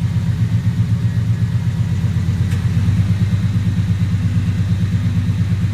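Truck engine idling steadily with an even, fast exhaust pulse, its header collector gaskets freshly resealed with high-temp RTV; there is no exhaust leak to be heard.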